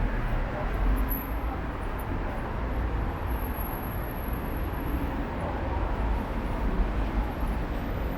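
City street traffic: a steady rumble of passing cars and buses.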